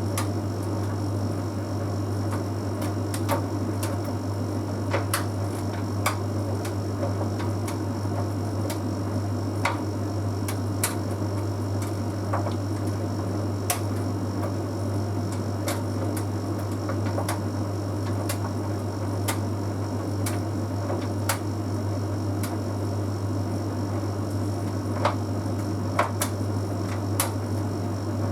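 Bosch Series 6 heat pump tumble dryer running mid-cycle: a steady low hum with the drum turning, and irregular light clicks and taps as the half load of synthetics tumbles.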